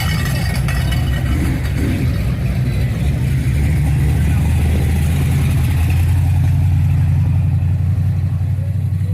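A car engine running at low revs, a steady low drone that grows louder past the middle and eases off near the end.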